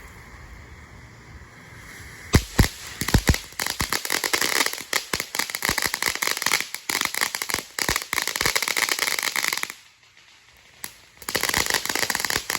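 Ground firework going off: a few sharp bangs about two seconds in, then dense rapid crackling that stops suddenly. After a single pop, a second burst of crackling follows.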